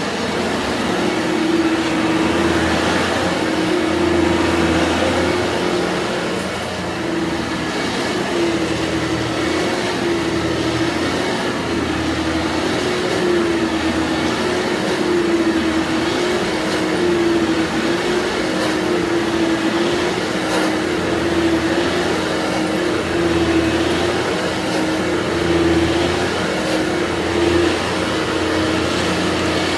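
Vorwerk VK 121 upright vacuum running with its ET340 powerhead over carpet: a steady motor whine with a low hum underneath, wavering slightly in pitch.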